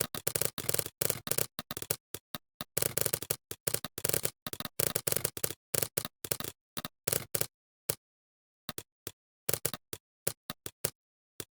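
Computer keyboard typing: irregular runs of quick key clicks with short pauses, dense through the first two-thirds and sparser near the end.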